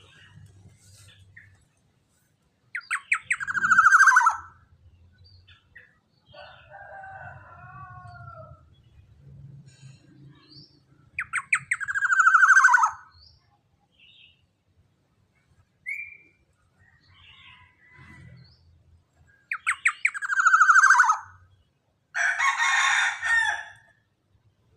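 Young black-naped oriole (kepodang) calling loudly: three calls about eight seconds apart, each a quick run of notes sliding down into a longer falling note, with softer chattering between them and a harsh rasping call near the end.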